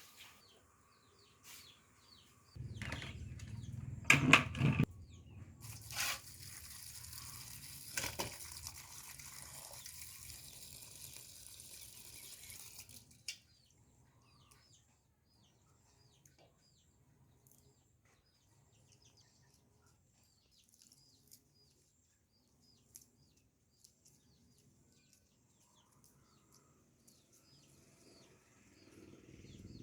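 A steady hiss with several sharp knocks, cutting off about thirteen seconds in, then a quiet stretch with faint bird chirps.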